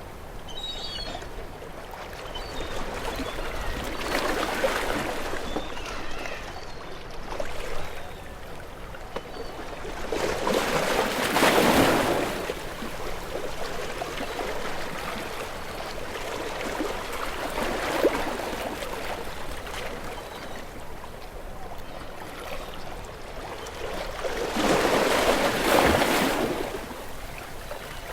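Ocean waves breaking and washing in. The surf swells three times, loudest about twelve seconds in and again near the end, and settles into a steady wash between swells.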